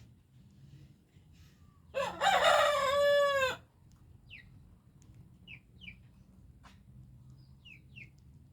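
A rooster crows once, about two seconds in, for about a second and a half, the call dipping in pitch at its close. Short, faint, high downward cheeps come here and there before and after it, several in pairs.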